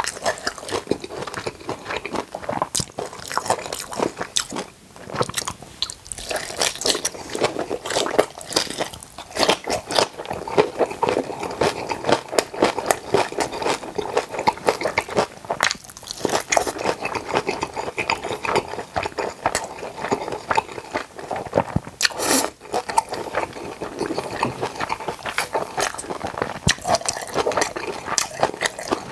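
Close-miked chewing of napa cabbage kimchi and boiled pork belly: wet, crunchy bites and chewing, one after another without a pause, with an especially loud crunch about 22 seconds in.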